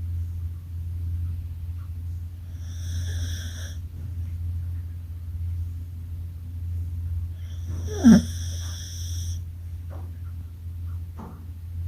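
Dog snoring: two slow, whistly breaths about five seconds apart over a steady low hum, with a short, loud, falling sound during the second breath.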